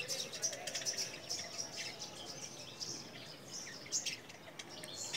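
Sparrows chirping: many short, high chirps in quick, overlapping succession from several birds.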